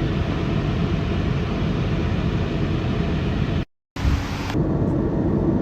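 Steady rumble and hiss of a vehicle running, heard from inside it. The sound drops to silence for a moment a little under four seconds in, where the recording is cut.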